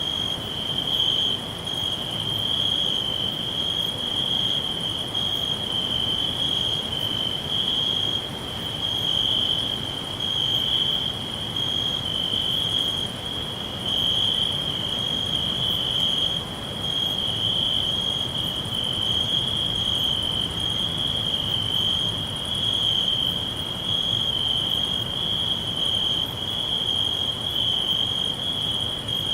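Crickets chirping in a steady, unbroken high trill, with a fainter, higher chirping that comes and goes about once a second, over a soft background hiss.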